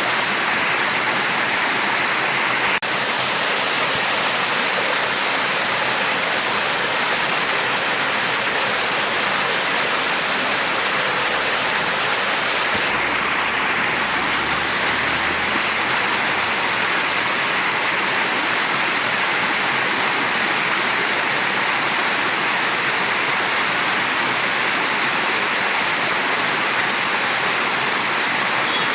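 Mountain stream rushing steadily over rocks, a continuous even splashing with no let-up.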